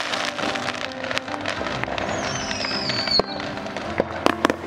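Fireworks going off: dense crackling and sharp bangs, with a high falling whistle about two seconds in and a quick run of loud bangs near the end.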